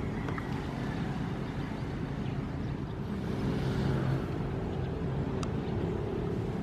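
Ocean waves: a steady deep rumble, with a wave washing in and fading about three to four seconds in.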